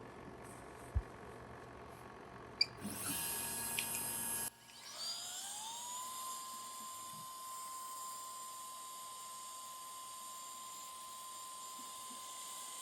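Spindle of a JCID EM02 CNC machine for iPhone board repair, spinning up with a rising whine about five seconds in, then running at a steady high pitch. Before that there are a few clicks and a louder buzz that cuts off suddenly.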